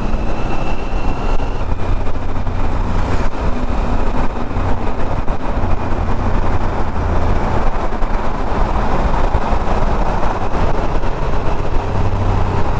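Motorcycle engine running steadily at cruising speed, with heavy wind and road noise, in a road tunnel.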